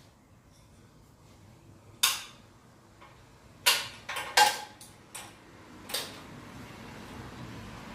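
Metal tools and hardware clinking and clanking as the engine is bolted onto the minibike frame: a handful of sharp knocks, the first about two seconds in and the rest bunched between about three and a half and six seconds.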